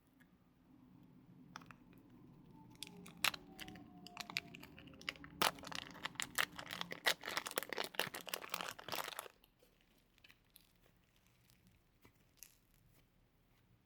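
Slime being worked by hand, giving a run of crackling, popping clicks. The clicks grow denser over several seconds and stop abruptly about nine seconds in, leaving only a few faint clicks.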